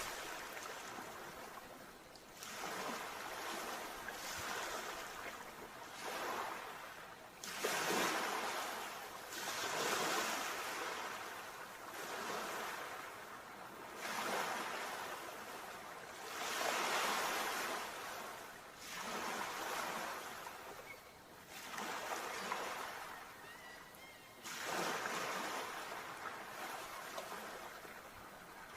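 Sea waves breaking. The surf surges and falls back every few seconds in a series of rushing swells.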